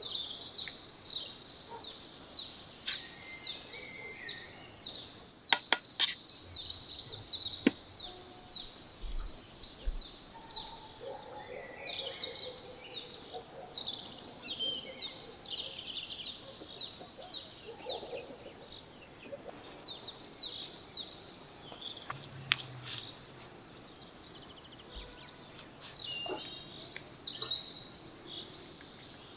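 A songbird singing in long runs of rapid, high, downward-sweeping chirps, several a second, in bouts with short pauses. A few sharp clicks come about six and eight seconds in.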